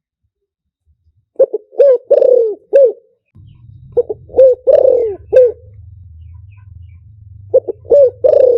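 Spotted dove cooing in three phrases about three seconds apart. Each phrase is a few short coos and one longer drawn-out note, as used for a dove lure call. A faint low hum comes in after the first phrase.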